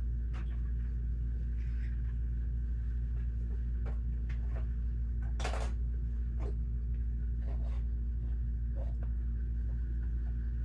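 Scattered light clicks and knocks of plastic Lego pieces being handled, about one a second, with a slightly longer scrape about five and a half seconds in, over a steady low hum.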